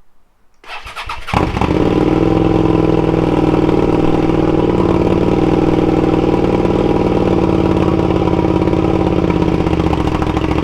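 Suzuki SV650S's V-twin engine started on the electric starter: a brief crank, catching about a second in, then idling steadily and loudly. A cold start, the engine just fired up to warm.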